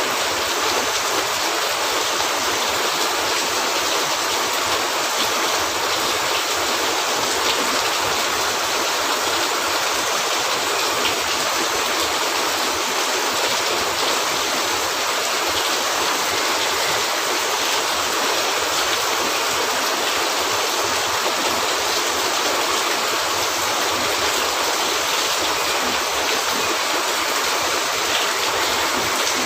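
Steady heavy rain, an even hiss on a cabin roof with no let-up.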